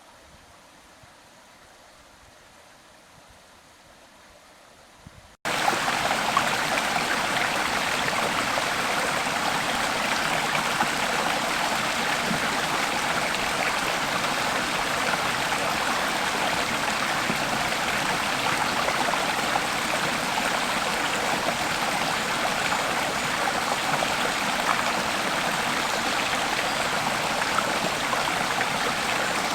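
Steady rush of a flowing stream that cuts in abruptly about five seconds in, after a much fainter stretch.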